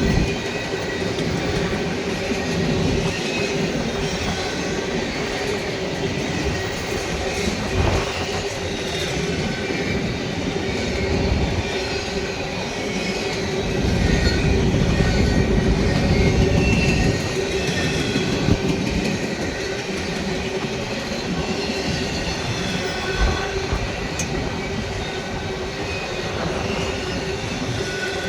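Freight train rolling past, a continuous rumble of railcar wheels on the rails with clickety-clack and short high wheel squeals.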